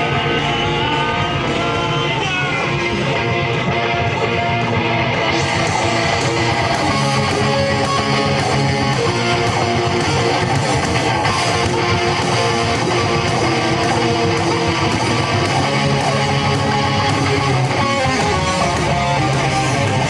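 Live rock band playing an instrumental passage led by electric guitar, loud and steady, the band filling out fuller from about five seconds in.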